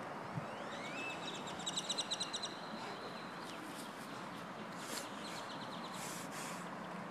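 Steady outdoor background noise with a bird singing: a rising note about a second in breaks into a rapid trill of about ten quick notes, and a weaker trill follows a few seconds later.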